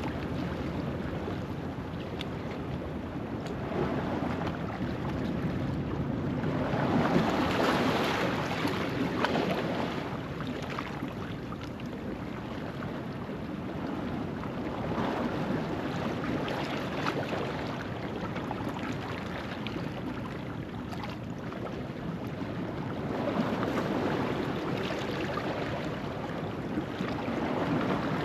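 Ocean waves washing over a rocky shoreline at low tide, a steady wash of surf that swells louder about a quarter of the way in and again near the end.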